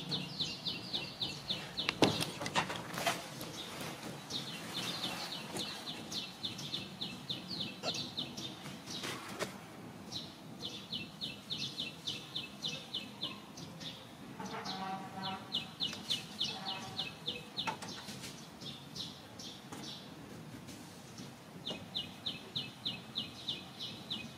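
A bird calling in quick runs of short, high chirps, about five or six a second, each run lasting two to three seconds and repeating several times. A lower, fuller call joins briefly in the middle, and a few sharp clicks fall between the runs.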